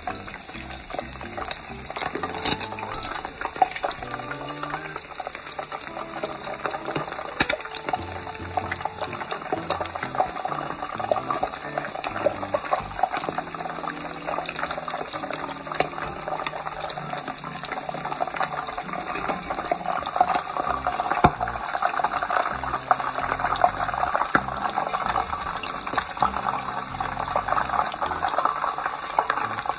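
Pork neck bones frying in hot oil: a steady crackling sizzle with many small pops.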